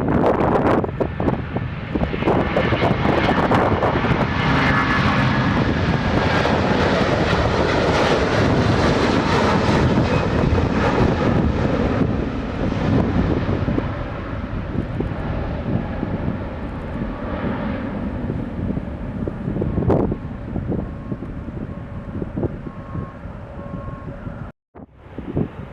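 Airliner's engines passing close by, loud at first and fading away after about twelve seconds. The sound cuts out for a moment near the end.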